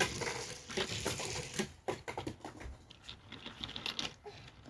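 Toy cars and train pieces clicking and clattering as they are handled, a scatter of irregular light knocks and taps.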